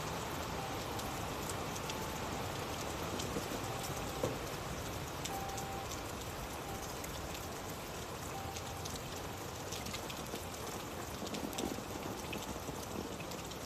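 Steady rain falling, an even hiss dotted with many separate drop ticks, one a little louder about four seconds in.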